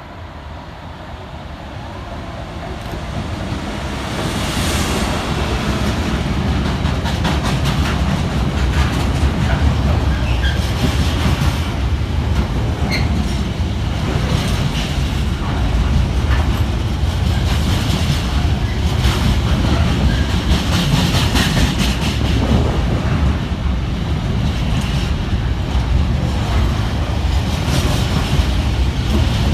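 Class 66 diesel locomotive 66528 hauling a container freight train through the station at speed. The sound grows over the first few seconds as it approaches, then holds as a steady heavy rumble with a rhythmic clickety-clack of the wagon wheels over the rail joints.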